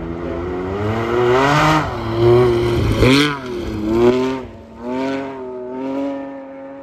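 Rally car engine revving hard through the gears as it drives the stage at speed. The pitch climbs and drops with each gear change. It is loudest about three seconds in, then fades as the car pulls away.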